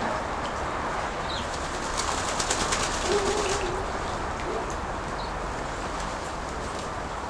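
A domestic pigeon cooing once, briefly, about three seconds in, over steady wind noise, with a quick run of light clicks just before it.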